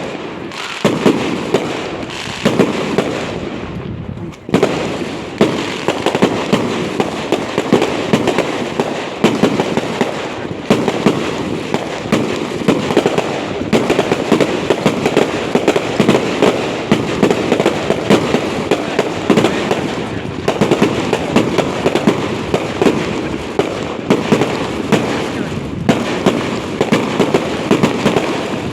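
Fireworks display going off in a dense, continuous barrage of bangs and crackles, with only a brief lull about four seconds in.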